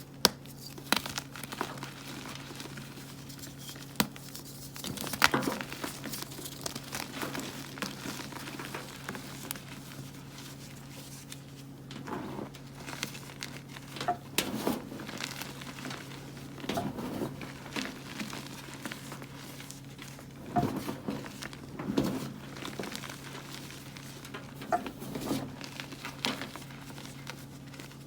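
Blocks of plain gym chalk being crushed and crumbled, giving irregular crunches with softer crumbling between, a dozen or so louder cracks scattered through.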